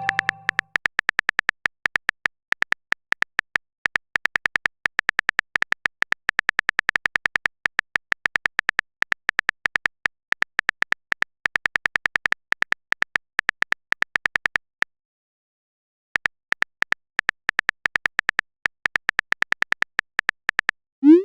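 Typing sound effect of a chat animation: a rapid, irregular run of short ticking clicks, like a phone keyboard, with a pause of about a second and a half two-thirds through. A quick rising tone starts right at the end.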